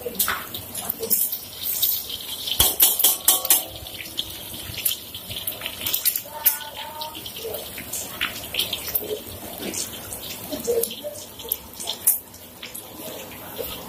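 Eggs frying in hot oil in a wok, a steady sizzle with sharp crackles and spatters, and clinks of a metal spatula against the pan.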